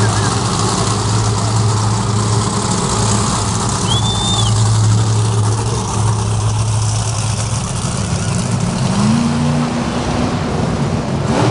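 Monster truck engine running loud and steady, revving up and holding higher about nine seconds in. A brief high whistle sounds about four seconds in.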